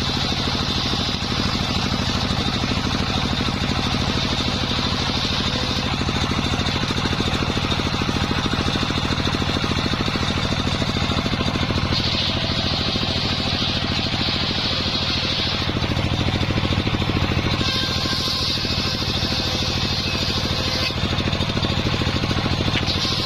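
Engine-driven circular sawmill running steadily: a low engine drone under a high blade whine that grows louder and softer in steps every few seconds while it saws timber into beams.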